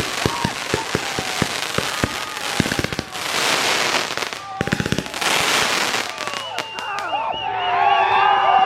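Consumer fireworks going off: a rapid string of firecracker pops, with two spells of hissing spray in the middle, dying out about seven seconds in. Several voices shout and cheer near the end.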